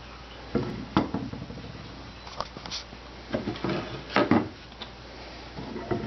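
Wooden Lee Enfield No.4 rifle stock and its metal trigger guard being handled and repositioned, giving a string of knocks and clunks: two about half a second and a second in, then several more between about three and a half and four and a half seconds in.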